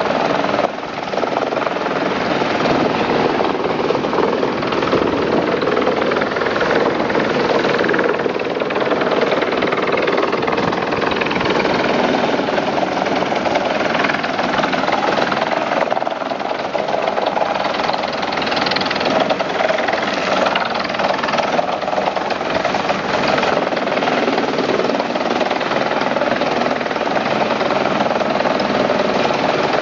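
Bruno Forest King forest wood chipper running: a loud, steady, dense mechanical noise with a brief dip about a second in.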